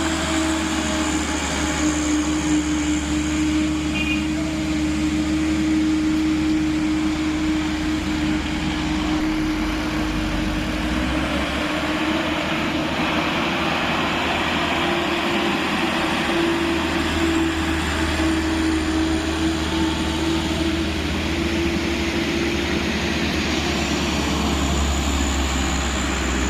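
Hino tanker truck's diesel engine roaring as it labours up a steep, winding climb, a steady droning tone held through the engine noise: the strange sound the truck gives off.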